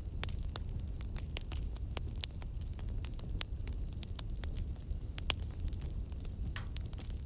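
Wood fire in a fireplace crackling: irregular sharp pops and snaps over a low steady rumble, one pop louder than the rest about five seconds in.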